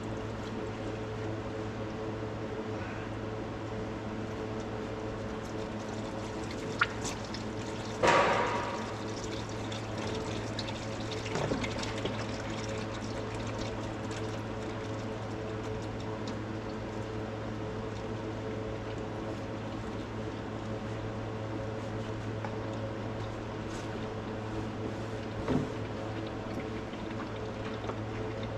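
Old transmission fluid pouring in a steady stream from a bus gearbox drain into a drain pan, over a steady low hum. A sharp click about seven seconds in, then a louder knock, with another knock near the end.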